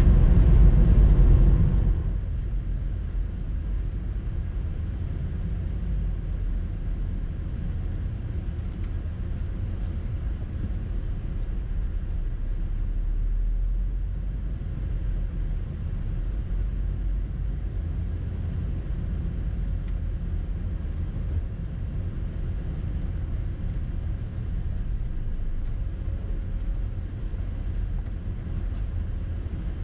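Moving train: a steady low rumble, after music fades out about two seconds in.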